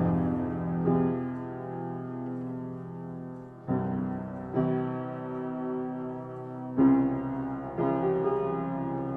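Instrumental music: keyboard chords, sustained, with a new chord struck every second or few seconds.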